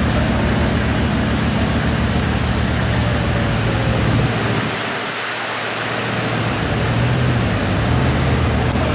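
Bugatti Veyron's W16 engine with an aftermarket sports exhaust idling with a steady low hum, under a broad rushing noise of wind and street traffic.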